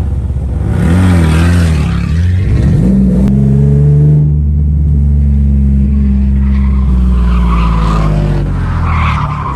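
Nissan 300ZX (Z31) V6 engine revving hard during a drift run. Its pitch climbs, holds high for several seconds, then drops away, with tyres skidding.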